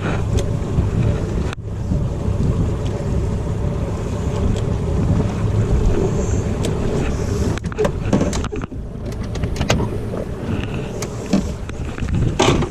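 A boat's outboard motor running under way, with wind buffeting the microphone. A few knocks come about eight seconds in.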